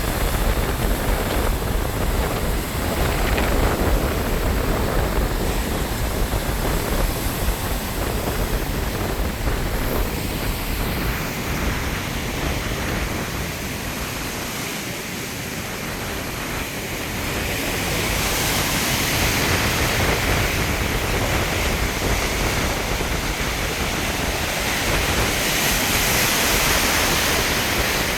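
Storm wind gusting over the microphone with ocean surf rushing below. The low buffeting drops away about halfway through, then a loud hissing rush builds up again in the last third.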